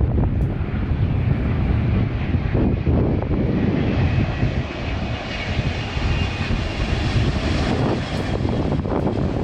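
Airliner engines as a plane passes the spotter, a dense steady noise whose higher range grows stronger around the middle and then eases.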